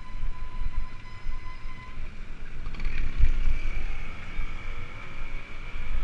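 Wind buffeting the microphone of a camera carried on a moving bicycle, a gusty low rumble, with faint thin whining tones over it that change pitch about halfway through.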